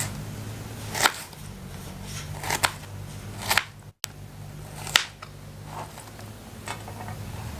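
A knife cutting an onion on a board: a few sharp, irregular knocks and cuts over a steady low hum.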